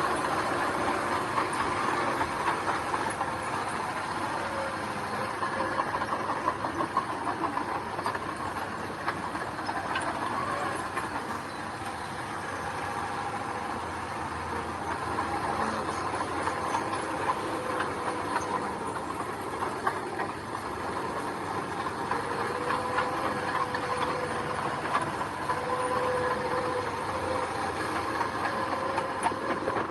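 Heavy diesel earthmoving machinery running steadily, with a constant light clicking and clatter throughout and a steady pitched whine in the last third.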